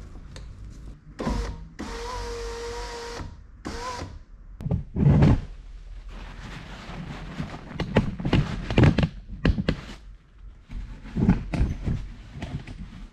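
VW Golf Mk5 rear door's electric window motor running in a short whirr, then a steady whine for about a second and a half. Irregular knocks and clatter of hands working on the door mechanism follow.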